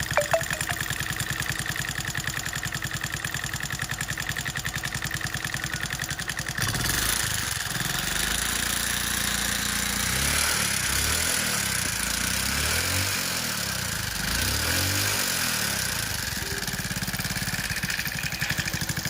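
TVS XL 100 Heavy Duty moped's single-cylinder engine running with a fast, even beat, then revved up and down several times from about six seconds in. The running engine carries a noise that the mechanic puts down to either a worn timing chain or loose tappets.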